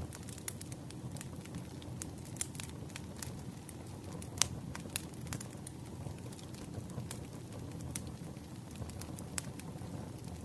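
Campfire crackling: irregular sharp pops and snaps over a steady low rush, with one louder pop about four and a half seconds in.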